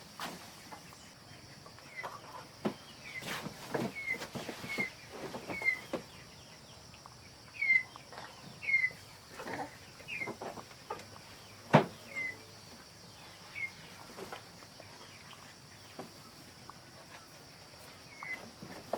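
Chickens calling in a string of short high chirps, among scattered knocks and thumps; the sharpest knock comes about two thirds of the way in.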